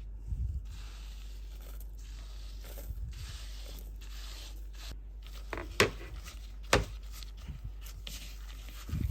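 Handling noise: a stretch of rustling, like paper or a packet being torn or crumpled, then two sharp knocks about a second apart, over a steady low hum.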